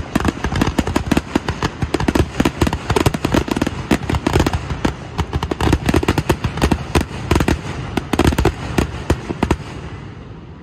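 A fireworks display going off in a dense, rapid barrage: many sharp bangs a second over a continuous low rumble, thinning out and dying away near the end.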